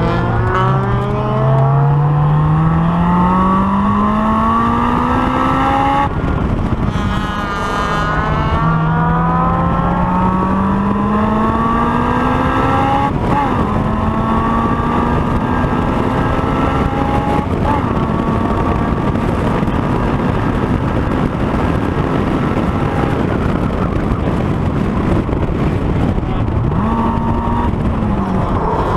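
Honda S2000's four-cylinder engine at full throttle on a racetrack, heard from on board. The revs climb steadily, drop sharply about six seconds in at a lift or gear change, climb again, run high and nearly level for a long stretch, then dip and pick up again near the end.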